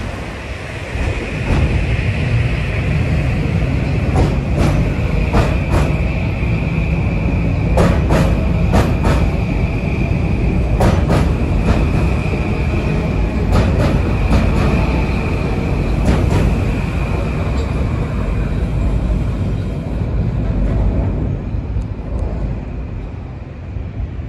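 Metro-North M8 electric multiple-unit train running past along the platform: a loud rumble with a steady high whine, and repeated clacks of its wheels crossing rail joints in quick pairs and groups. The sound fades near the end as the last car goes by.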